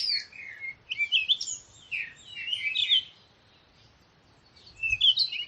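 Songbird singing: rapid, twittering phrases of high chirps, a long burst in the first three seconds and another shorter phrase near the end.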